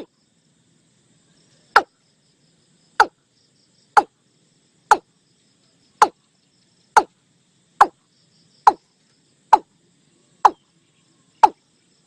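Calls of the bird known in Thai as nok i-klung: a regular series of short, sharp notes, each sliding quickly downward in pitch. The notes come about one a second and gradually quicken.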